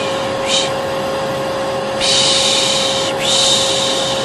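Hair dryer running steadily with a constant whine, while a person shushes over it in repeated 'piş piş' hisses: a short one near the start, then two longer ones back to back in the second half. This is white noise for calming a colicky baby.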